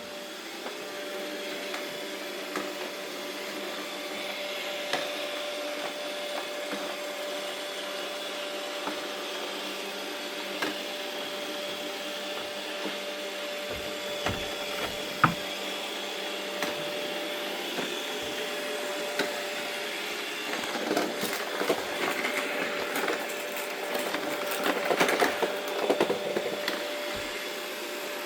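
Robot vacuum cleaner running with a steady motor hum and a thin whine. Occasional sharp knocks, with a busier stretch of brushing and rattling from about two-thirds of the way in.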